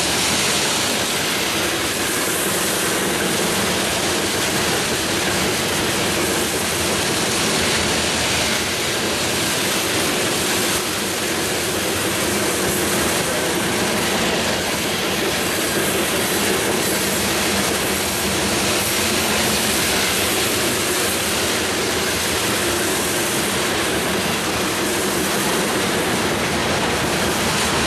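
Coal train's cars rolling past, a steady noise of steel wheels running on the rails.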